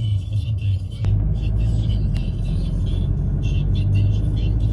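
Steady low rumble of a vehicle on the move, stepping up a little about a second in, with faint music over it.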